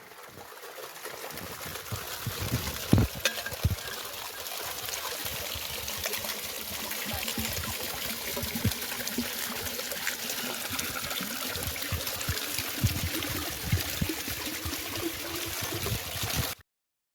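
Water running steadily, with a few low knocks and thuds mixed in; the sound cuts off abruptly near the end.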